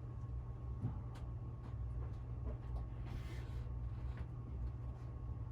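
Hunter Original ceiling fan coasting down with its power off, giving a low pulsing hum. A few faint ticks and a short hiss about three seconds in.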